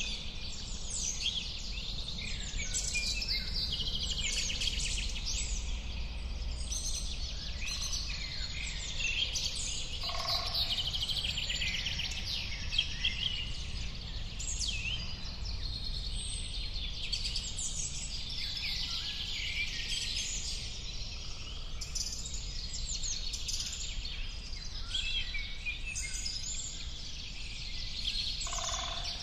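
Many songbirds chirping and singing at once in a dense, continuous chorus, over a steady low rumble.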